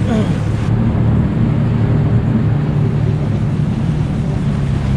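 Jet ski engine running steadily under way, with its low drone over a constant rushing noise.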